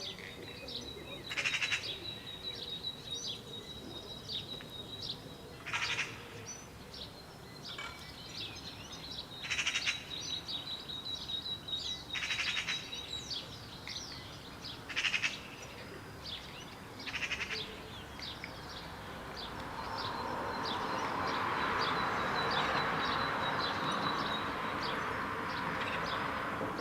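Birds chirping over a steady high trill, broken by six short, harsh rattling calls a few seconds apart, typical of a Eurasian magpie's chatter. In the last third a rushing noise swells up and holds.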